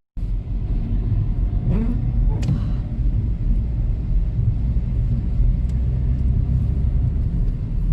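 A steady low vehicle rumble, with two brief rising sounds about two seconds in.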